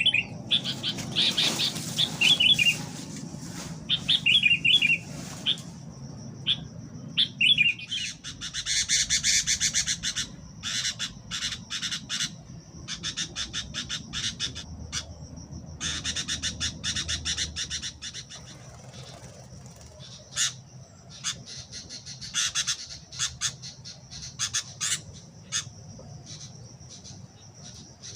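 Birds calling in repeated bursts of rapid, high chattering and squawks, with short chirps in the first few seconds, over a steady thin high tone. A low rumble of wind sits underneath in the first half.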